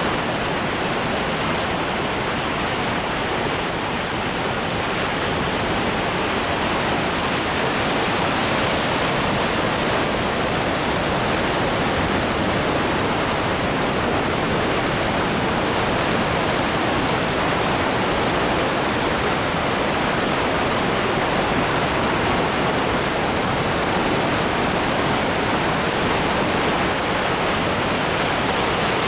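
Goðafoss waterfall: the steady, even rush of a large volume of falling water.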